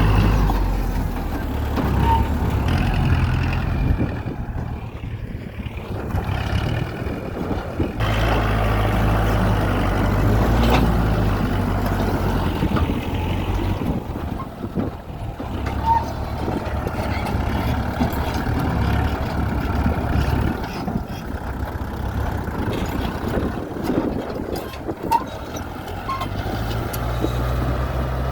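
Tractor diesel engine running steadily while working through deep mud, its low hum fading and returning several times over the stretch. A few faint short chirps sound over it.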